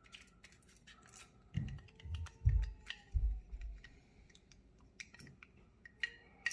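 Scattered small clicks and taps of hands handling computer case parts, with a few dull low thumps about two to three and a half seconds in.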